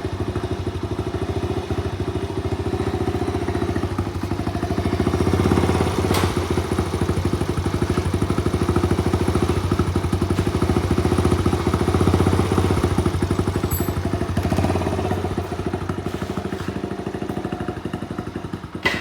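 Honda Magna 50's small single-cylinder four-stroke engine running steadily, its exhaust pulsing evenly; it gets a little louder through the middle and settles back near the end, with a short click about six seconds in.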